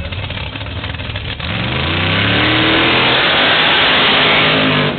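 A car engine idling low, then revving up hard about a second and a half in. It rises in pitch for about a second and holds at high revs for about three seconds, then cuts off abruptly just before the end.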